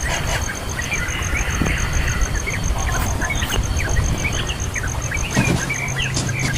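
Birds chirping: many short, quick calls scattered throughout, over a steady low rumble.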